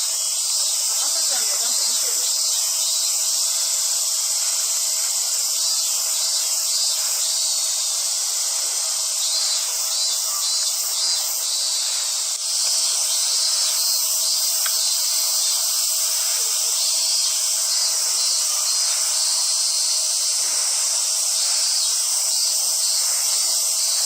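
Cicadas singing in chorus: a loud, steady, high hiss with a faint fine pulsing.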